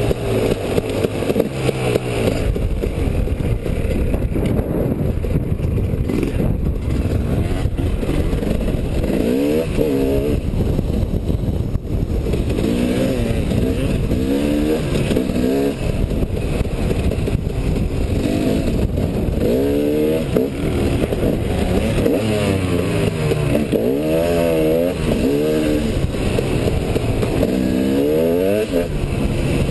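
Enduro motorcycle engine under way on a sand trail, the revs rising and falling repeatedly as the throttle is worked, over steady rushing wind and riding noise.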